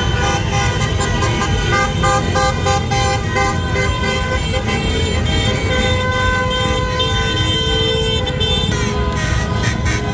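Many car horns honking together in long overlapping blasts at different pitches, over the noise of traffic.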